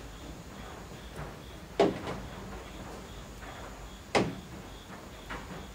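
Steady rain with heavy drops falling from the roof eaves, landing as sharp knocks now and then; the two loudest come about two and four seconds in.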